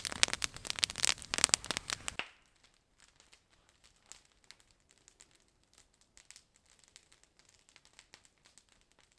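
Wood campfire crackling, dense and loud for about two seconds, then dropping abruptly to faint, scattered crackles.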